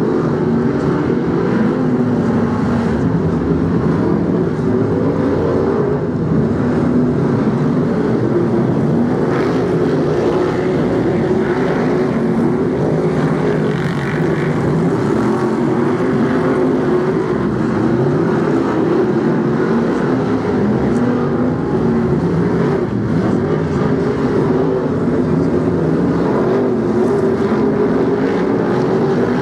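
A pack of BriSCA F1 stock cars racing round a short oval, a dense steady din of many loud V8 engines whose pitch rises and falls as they accelerate and lift through the bends.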